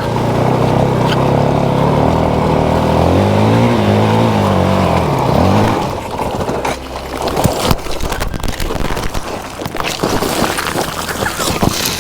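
Motorcycle engine revving hard under load on a steep hill climb, its pitch rising and falling, then cutting out suddenly about six seconds in as the bike stalls after hitting a rock. A rapid string of knocks, scrapes and thuds follows as the bike and rider tumble back down the hill.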